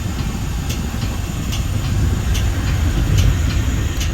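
Metra bi-level commuter train running at speed, heard from inside the front cab car: a steady low rumble of wheels on rail, with a sharp click about once a second as the wheels pass over the track.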